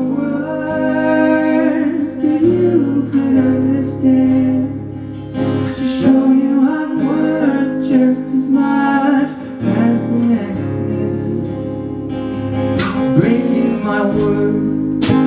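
Acoustic guitar song: strummed chords under a sung melody line.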